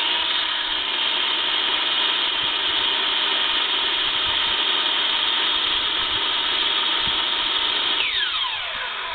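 Milwaukee 12-inch sliding compound miter saw running free, with no cut, its motor and blade spinning at full speed with a steady high whine. About eight seconds in the trigger is released and the saw winds down, its whine falling in pitch.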